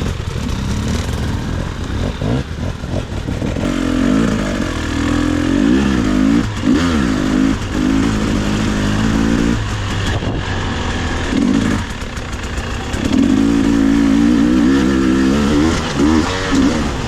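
Two-stroke enduro dirt bike engine revving up and down in repeated bursts of throttle, easing off briefly a few times in between.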